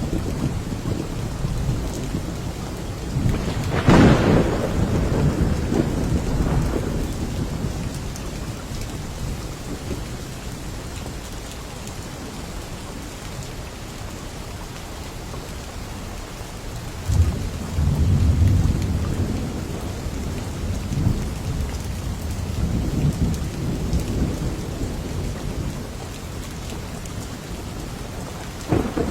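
Steady rain with thunder. A sharp thunderclap comes about four seconds in, and low rolling rumbles follow in the second half.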